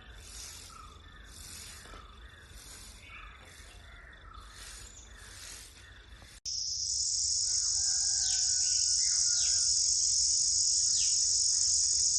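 Insects and birds: a high, pulsing insect chorus with scattered bird notes, then after a sudden cut about six seconds in, a loud steady high-pitched insect buzz with birds giving a few quick falling calls and whistles.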